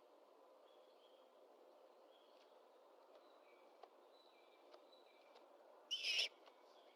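Great horned owl at the nest giving one short, harsh, rasping screech about six seconds in. Faint, short, high peeps come and go in the quiet before it.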